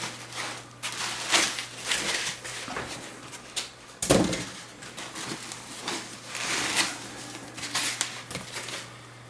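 Plastic and foam packaging rustling and crinkling in a series of irregular handfuls as a NAS unit is unwrapped, with a heavier thump about four seconds in.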